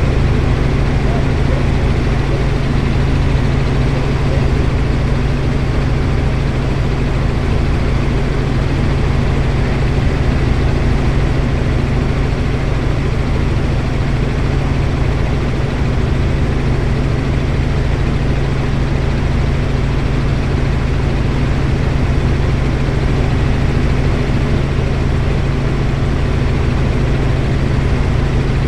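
Helicopter engine and rotor running with a loud, steady low drone.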